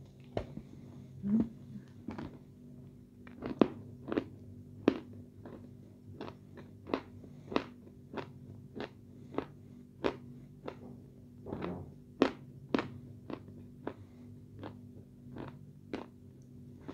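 Close-miked chewing of a soft red clay paste: a run of sharp wet mouth clicks and smacks, irregular, about one or two a second.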